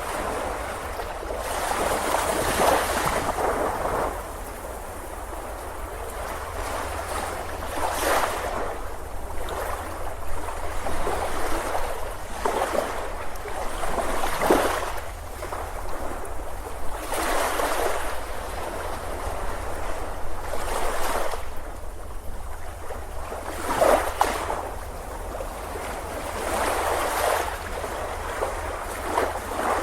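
Ocean waves breaking on a beach, each wave swelling and washing out every few seconds over a steady hiss of surf.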